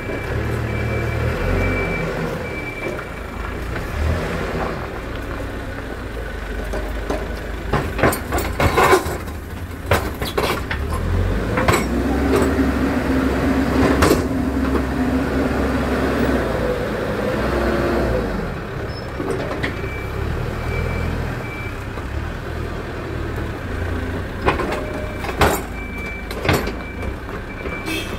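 Diesel engines of Hidromek 102S backhoe loaders working, the engine note climbing and strengthening through the middle stretch, with a scattering of sharp knocks and clanks, several of them a third of the way in and another cluster near the end.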